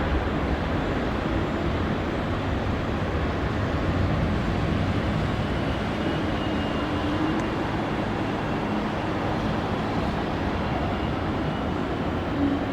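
Airbus A380 jet engines running at takeoff power: a steady, deep roar with faint whining tones above it.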